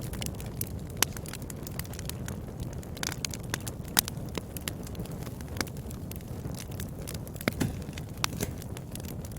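Wood fire burning in a fireplace: a steady low rumble of flames with frequent sharp crackles and pops, the loudest about one and four seconds in, and a quick run of pops a couple of seconds before the end.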